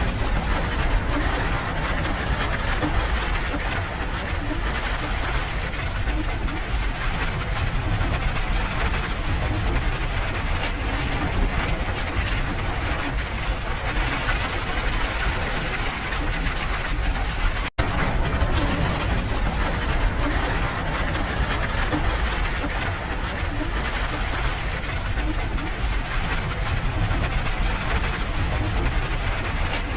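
Steady rain noise with a deep low rumble underneath. It cuts out for an instant about eighteen seconds in.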